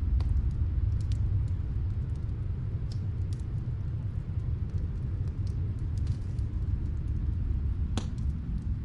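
Snowstorm wind as a steady low rumble, with scattered faint crackles of a wood fire; one sharper crackle near the end.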